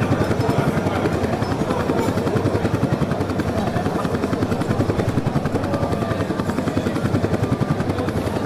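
HAL Light Combat Helicopters Prachand flying past in formation, their rotors making a loud, fast, steady chopping beat.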